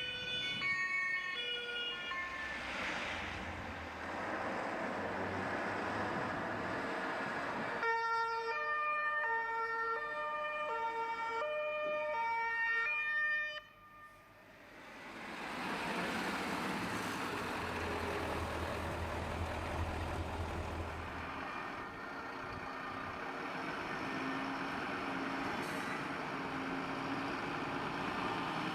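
German two-tone fire truck siren alternating between a high and a low pitch. It breaks off suddenly about 14 seconds in, and then the steady road and engine noise of the moving truck carries on.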